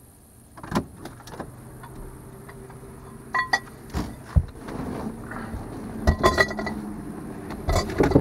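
A series of sharp clinks and knocks over a low steady hum that gets louder about halfway through.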